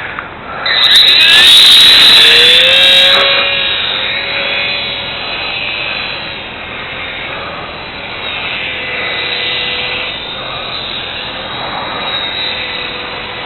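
Micro RC plane's gear-driven electric motor and propeller whining up to full power. The pitch rises about a second in and it is loudest for the first couple of seconds, then fainter and wavering as the plane flies away. The owner calls the geared motor noisy.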